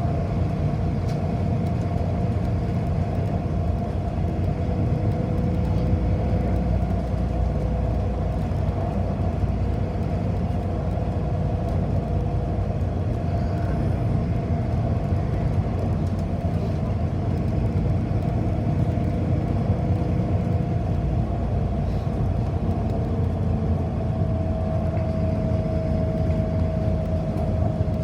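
Cabin noise inside a moving city bus: a steady low rumble of the drivetrain and road, with a faint steady whine above it that grows a little louder near the end.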